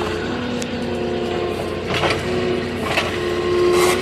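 Moffett truck-mounted forklift running while its forks are driven under a load: a steady machine hum with whining tones that come and go, and a few short knocks about two, three and nearly four seconds in.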